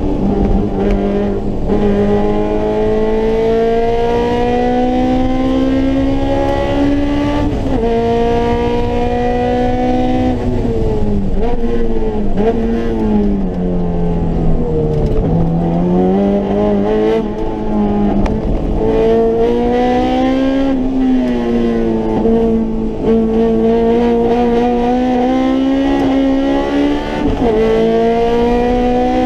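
Honda S2000's four-cylinder engine heard from inside the cabin at full track pace. Its pitch climbs under acceleration, drops sharply about seven seconds in, falls away for several seconds around the middle as the car slows, then climbs again through the rest.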